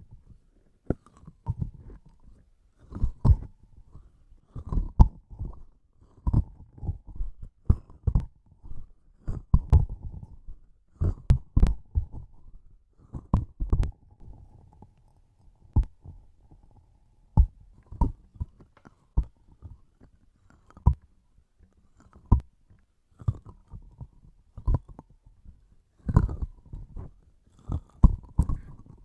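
Close-miked sticky tacky smacks and pops as soft, sticky transparent objects are pressed and pulled apart, coming irregularly about one or two a second.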